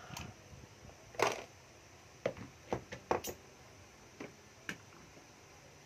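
A series of separate knocks and clicks from cordless power tools being handled and set down on a hard surface, the loudest about a second in and a quick cluster of them in the middle.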